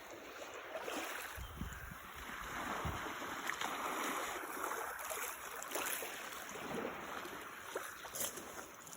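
Small waves washing and lapping on the beach shore, a steady rushing that swells and eases. There are a couple of low thumps in the first few seconds.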